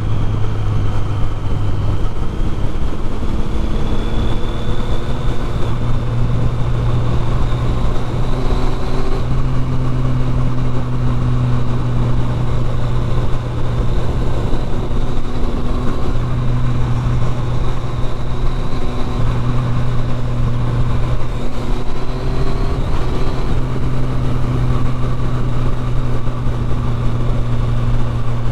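Triumph Street Triple 675's inline-three engine running under way through a loud exhaust, holding a fairly steady note that shifts up and down slightly a few times, with a faint high whine over it.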